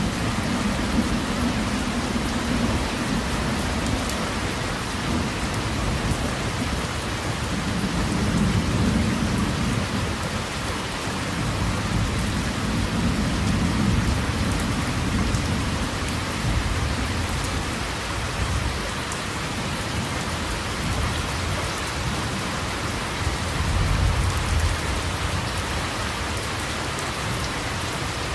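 Steady heavy rain hissing, with low rumbles of distant thunder that swell and fade several times, strongest near the start and about a third of the way through.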